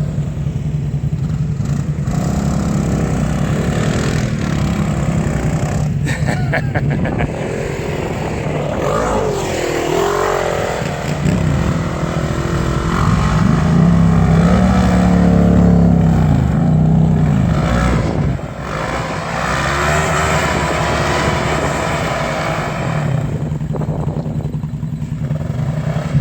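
Motorcycle engine running continuously, its pitch rising and falling with the throttle and loudest about halfway through.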